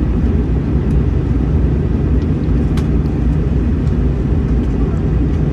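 Steady low rumble inside the passenger cabin of an Airbus A321-211, the engines and the aircraft's motion making a constant drone, with a faint click about three seconds in.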